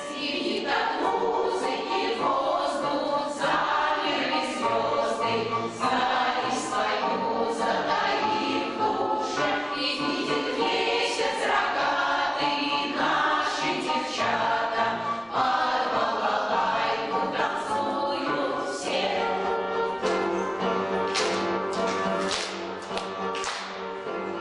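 An amateur veterans' choir singing a song together with instrumental accompaniment.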